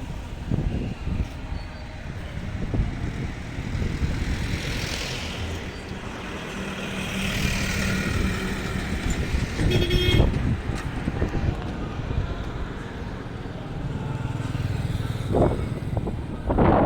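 Boat Mail Express train running across the bridge: a steady low rumble with a hiss over it, and a brief louder sound about ten seconds in.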